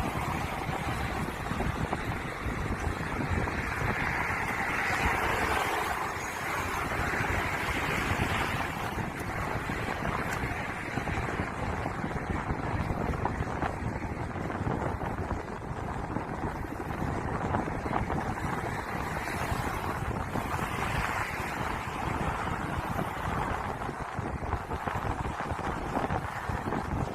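Wind buffeting the microphone: a steady rushing rumble with a broad hiss over it, rising and falling slightly.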